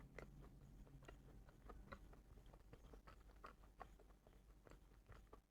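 Faint, close-miked eating sounds: soft, irregular mouth clicks and smacks of quiet chewing, a few a second.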